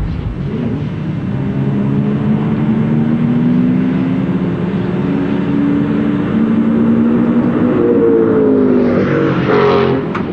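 Factory Five Cobra race car's V8 engine running under load, its pitch climbing slowly as it accelerates. Near the end it swells louder with a rush of noise and shifting pitch.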